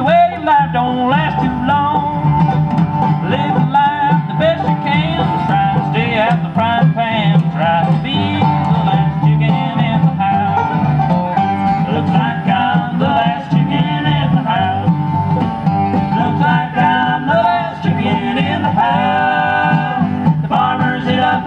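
Bluegrass band playing an instrumental passage on acoustic strings, with no lyrics heard.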